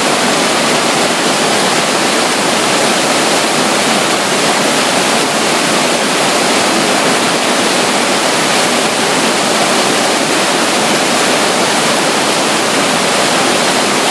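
Running water rushing steadily, with no change in level: a small flow of water at the side of a river, with a waterfall close by.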